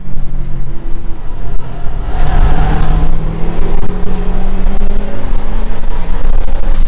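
Subaru WRX's turbocharged flat-four engine heard from inside the race car's cabin, pulling hard under acceleration. About two seconds in the engine note breaks at a gear change, then climbs steadily as the car picks up speed again.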